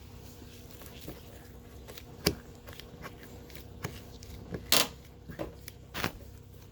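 Hand tools working on a seized radiator mounting screw: scattered clicks, knocks and short scrapes of metal against metal and plastic, the loudest a brief scrape about three quarters of the way through, over a faint steady hum.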